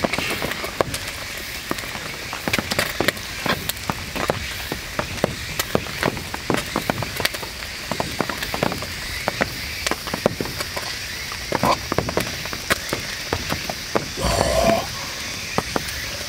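Heavy rain on a canvas tent: a steady hiss with many irregular drop taps. A short, louder sound comes near the end.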